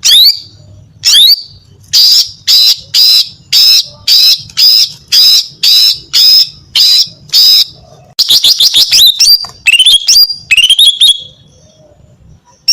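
Female green leafbird (cucak ijo) calling, the lively call used to lure males: a string of short, sharp high notes about two a second, then a quick rattling run and a few sweeping notes near the end.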